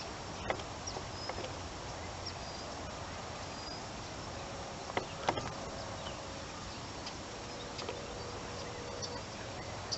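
Faint outdoor ambience with a few short, high chirps, and several sharp handling clicks about half a second in and around five seconds in, from the camera being fixed on its tripod.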